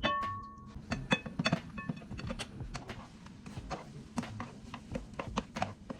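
Kitchen handling sounds: irregular clicks and knocks of cookware and utensils, opening with a short ringing clink.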